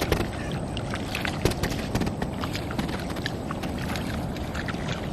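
Shallow water sloshing and splashing as a beach seine net is hauled by hand, with many small irregular splashes and drips.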